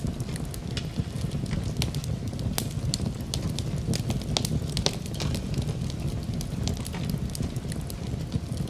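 Wood fire burning in a fireplace: a steady low rumble of flame with many sharp, irregular crackles and pops from the burning wood.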